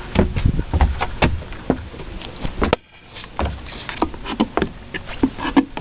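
Handheld camera being carried: irregular knocks, clicks and low bumps of handling, with a brief quiet moment just before three seconds in.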